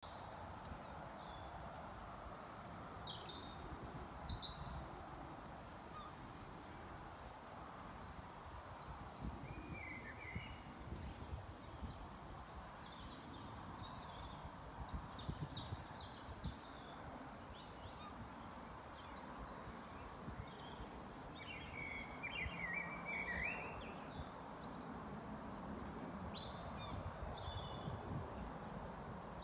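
Outdoor ambience of birds chirping and calling on and off, with a busier run of calls a little past two-thirds of the way through, over a steady low rumble.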